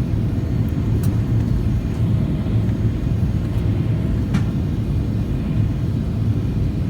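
Cabin noise inside a Boeing 737-800 airliner: a steady low rumble of the engines and rushing air, with two faint clicks about a second in and past the middle.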